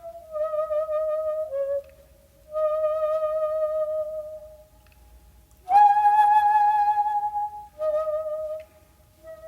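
Solo shakuhachi (Japanese end-blown bamboo flute) playing slow, long held notes with a wavering vibrato, separated by short pauses. About halfway through it jumps to a sudden, louder, higher note.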